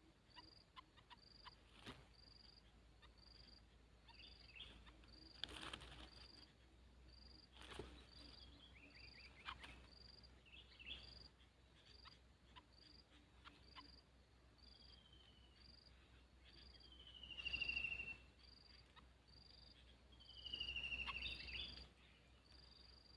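Faint outdoor ambience: an insect chirps steadily at a high pitch, a little more than once a second. Over it come a few falling whistled bird calls, the loudest two in the second half, with scattered faint clicks and rustles.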